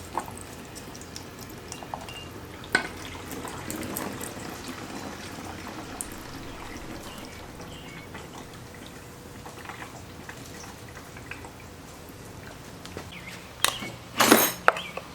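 Liquid dripping and trickling, with scattered light clicks of metal parts being handled. A louder scrape comes near the end.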